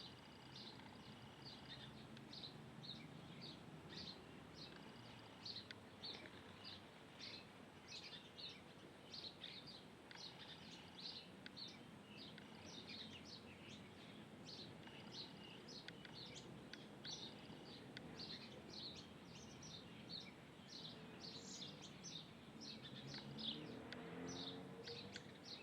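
Faint bird chirping: a busy, continuous run of short, high chirps, several a second, over quiet outdoor background noise.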